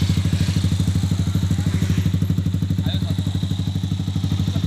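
Yamaha R15 V3's single-cylinder engine idling steadily through an F2racing full-system aftermarket racing exhaust, a rapid, even pulse of exhaust beats.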